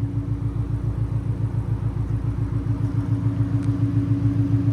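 2006 Ford Mustang GT's 4.6-litre V8 idling through long-tube headers and Flowmaster FX mufflers: a steady, evenly pulsing exhaust note.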